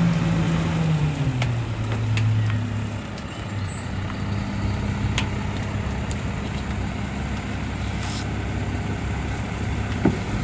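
Garbage truck engine dropping from raised revs back to a steady idle about a second in, once the packer cycle finishes, with a few light clicks and knocks from the truck body. About eight seconds in there is a short air hiss.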